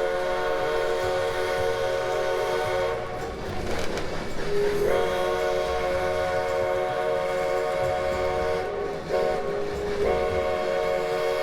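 Steam locomotive's chime whistle sounding long blasts with a short one between them: a long blast ending about three seconds in, another long one, a short blast, then a long one near the end. This is the long-long-short-long pattern blown for a road crossing. Each blast opens on a brief lower note before the full chord sounds, over the low rumble of the moving train.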